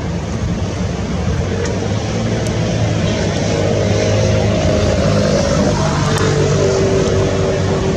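Cessna R172K Hawk XP light single-engine propeller plane flying past: a steady engine and propeller drone that grows louder a few seconds in and drops in pitch about six seconds in, over a constant noisy background.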